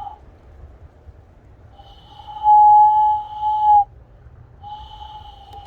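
Hand whistle blown through cupped hands, used as a bird call: two long, steady, flute-like notes of about two seconds each. The first is the louder.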